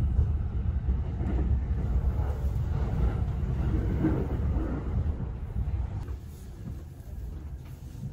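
Low running rumble of a JR East Tōkaidō Line commuter train, heard from inside the carriage. It eases to a quieter level about six seconds in.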